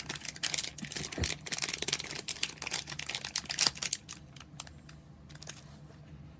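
A plastic snack bag of Mini Cheddars crinkling and crackling as it is handled and torn open, a dense run of small crackles that dies down to a few faint ones about four seconds in.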